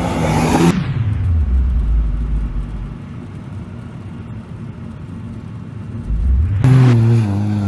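Rally car engines at speed: a car at full throttle passes, its engine note falling in pitch and fading into a low rumble. Another rally car's engine cuts in loud near the end.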